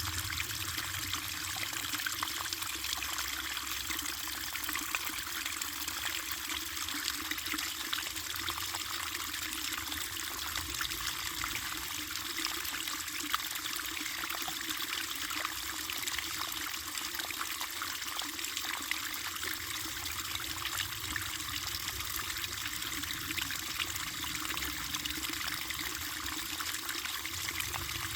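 Running water trickling and splashing steadily, with many small splashes over a low rush.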